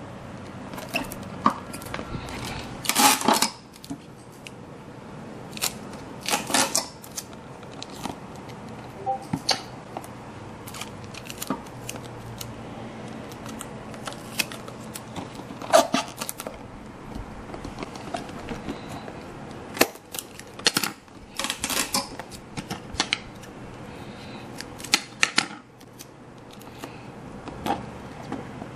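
Irregular clicks and taps with short bursts of scraping and rustling, from hands working with small model-making materials and tools.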